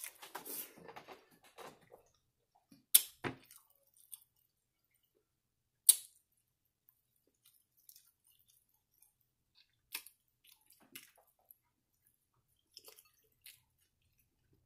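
A person chewing food, with scattered sharp clicks of a metal fork against a glass bowl. The two loudest clicks come about three seconds apart, and softer ones follow later.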